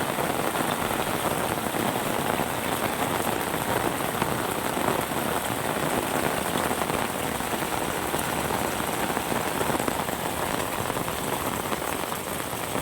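Steady rain falling and pattering on surfaces, an even dense hiss of many drops with no letup.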